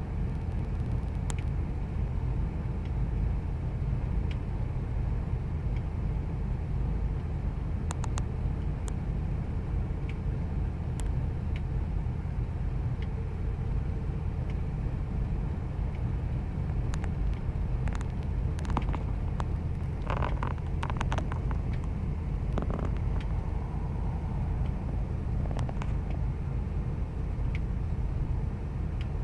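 2000 Ford Expedition's 5.4-litre V8 idling steadily with a low rumble; the owner's complaint is a rough idle. A few light clicks come through in the second half.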